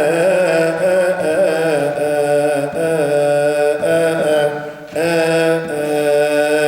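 Coptic cantor chanting a liturgical hymn, drawing out long melismatic notes whose pitch wavers and turns, with short breaks for breath twice.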